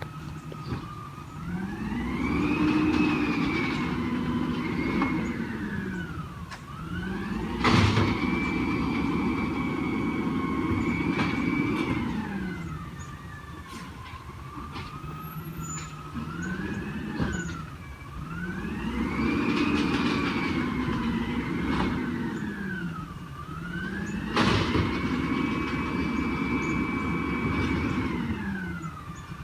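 Garbage truck engine revving up, holding and dropping back again and again, with the whine of the hydraulic pump rising and falling along with it as the packer cycles. There are sharp metal bangs twice, a few seconds in and again near the end.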